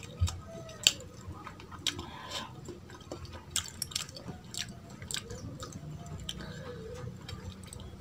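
Close-miked eating sounds: a person chewing mutton and rice, with wet mouth smacks and sharp clicks scattered throughout, the loudest about a second in, and fingers squishing through pulao rice on the plate.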